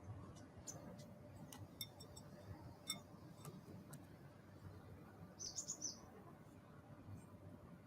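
A bird gives a short burst of high chirps a little past halfway, over a faint background hiss with scattered soft ticks in the first half.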